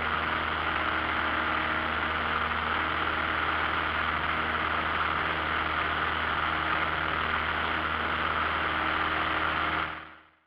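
Cessna 172 Skyhawk's piston engine and propeller droning steadily, heard inside the cabin, fading out just before the end.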